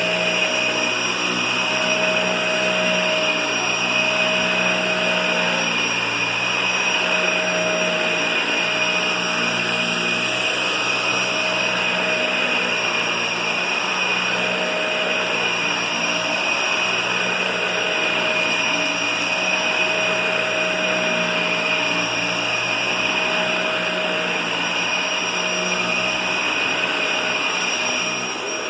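Vacuum cleaner running steadily with a constant high whine, dipping slightly in level near the end.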